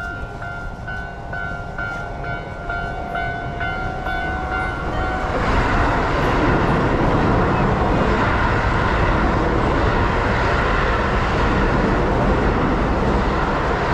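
Railway level-crossing warning bell ringing in an even repeating beat. About five seconds in, a train passes close by and its loud running noise swamps the bell.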